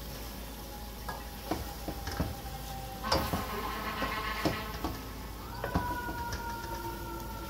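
Pigeons frying in spiced oil and onions in an aluminium pot, sizzling steadily while a wooden spatula stirs them. The spatula knocks and scrapes against the pot several times, loudest about three seconds in and again near six seconds.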